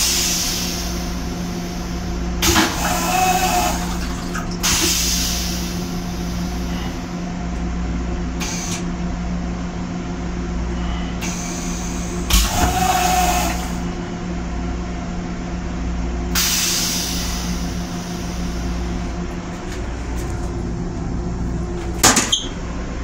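Running noise inside an M7 railcar's restroom: a steady hum over low rumble, broken by a few short bursts of hiss. A sharp clack near the end as the plastic toilet lid comes down.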